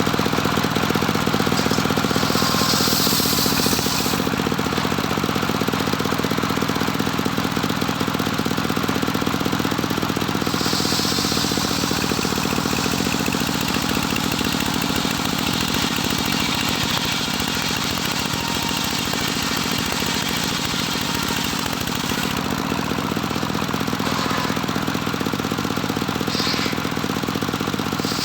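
The engine of a homemade circular sawmill runs steadily throughout. Stretches of brighter high-pitched hiss come and go over it: one near the start, a longer one of about five seconds in the middle, and a short one near the end.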